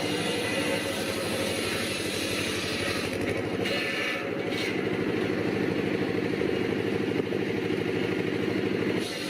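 A small engine running steadily with a fast, even firing beat, with a brief harsher stretch a few seconds in.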